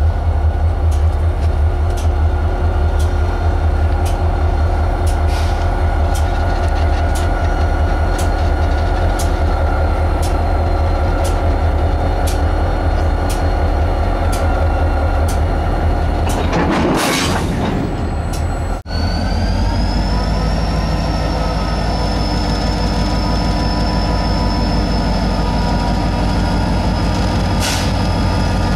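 A train running along the track, heard from on board: a steady low rumble with steady mechanical tones above it and scattered sharp clicks. About 17 seconds in there is a brief rushing swell, then the sound cuts out for an instant and settles back into the steady running.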